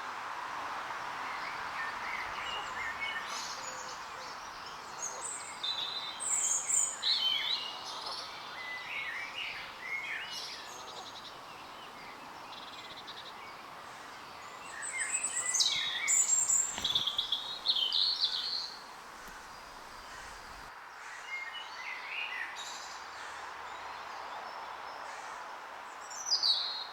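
Birds chirping and singing in short, varied phrases, busiest in two spells a few seconds in and around the middle, over a steady background hiss of outdoor noise.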